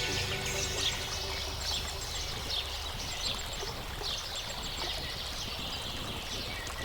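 A large flock of starlings chattering: many short overlapping chirps and squeaks blending into a rushing wash of sound, over a low, steady rumble.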